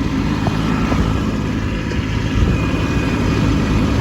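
Kubota B2601 compact tractor's three-cylinder diesel engine running steadily while back-blading snow with the rear blade.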